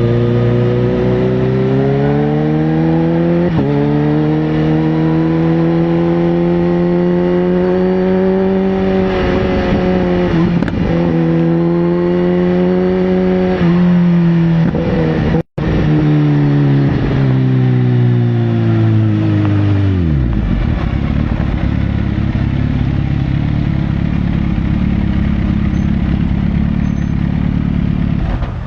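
Sportbike engine pulling through the gears, its pitch climbing and dropping back at upshifts about 3.5 s and 14 s in, with a brief break in the sound about halfway. It then winds down steadily as the bike slows, settling about 20 s in into a lower, rougher steady rumble.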